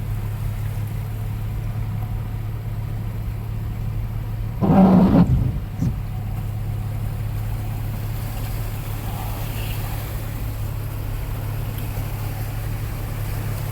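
Steady low drone of a Toyota FJ Cruiser's 4.0-litre V6 and drivetrain, heard from inside the cabin while driving through flood water. A brief, louder pitched sound cuts in about five seconds in.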